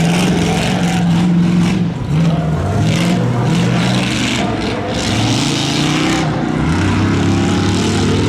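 A stock pickup truck's engine running hard under load on a dirt obstacle course. Its pitch climbs and drops several times as the throttle is worked, with bursts of rattling noise over the top.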